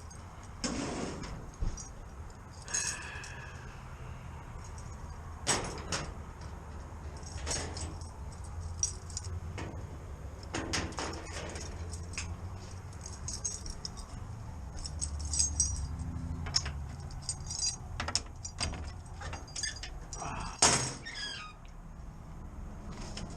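Scattered metallic clinks, knocks and rattles of tools and gear being handled, with a short squeak about three seconds in, over a steady low hum.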